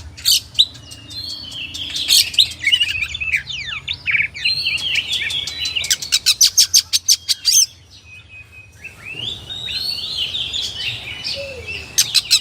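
Oriental magpie-robin (kacer) singing a varied song of whistled and warbled phrases. Midway comes a fast run of sharp repeated notes, about eight a second, then a brief pause before the warbling resumes.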